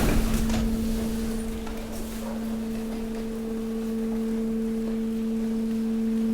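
Hydraulic waste compactor's pump unit humming at a steady pitch, growing slowly louder as it works against the load of waste. A fading crackle of waste being crushed is heard in the first second or two.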